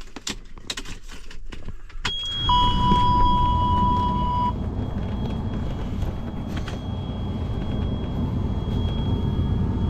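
Clicks and jangling keys in a log truck's cab, then about two seconds in a steady high electronic warning tone comes on, with a lower beep for about two seconds. At the same moment a loud, even low rumble from the truck starts and keeps going.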